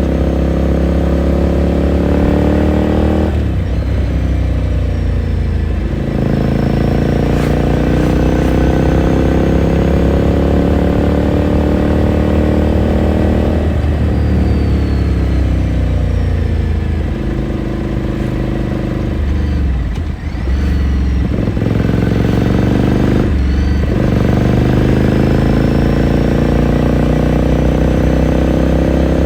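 Ducati Scrambler Sixty2's air-cooled V-twin exhaust heard onboard while riding. The engine note climbs as the bike accelerates, with short breaks at gear changes. Past the middle it drops to low revs with the bike slowing, then it climbs again near the end as the bike pulls away.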